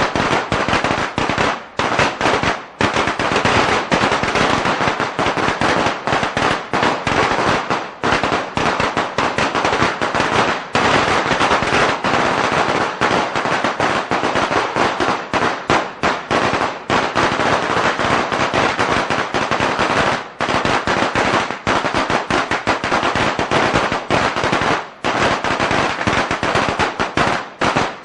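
A string of firecrackers going off in a rapid, unbroken crackle of bangs, with only a few brief gaps.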